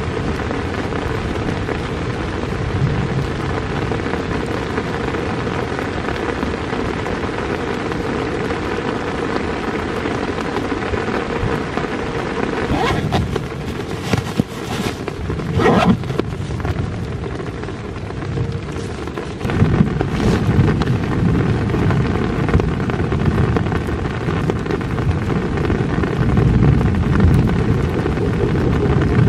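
Steady rain, with a low rumble that grows stronger about two-thirds of the way through. Around the middle there are a few short clicks and rustles from a backpack's straps and buckles being handled.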